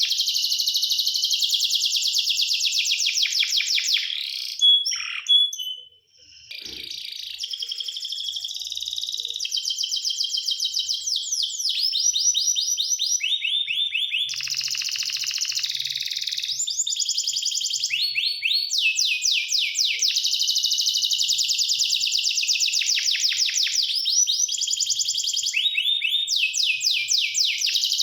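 Domestic canary singing a long song of rapid trills. Each phrase is a fast run of repeated notes that changes every second or two, with a short break about five to six seconds in.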